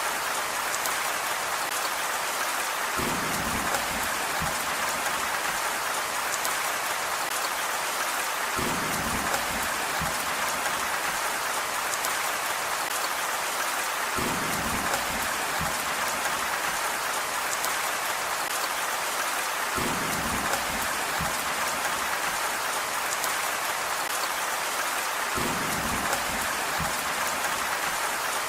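Steady, dense rain falling on a surface, an even hiss throughout. A low rumble swells up under it for a second or so about every five and a half seconds, five times in all.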